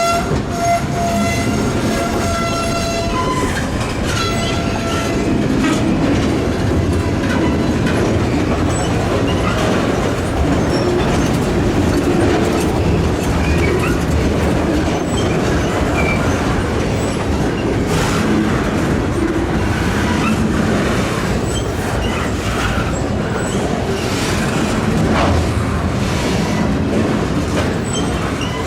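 Freight train: the locomotive's air horn is held through the first three seconds, with a shorter blast about four seconds in. The train then passes with a steady rumble and wheel clatter over the rail joints.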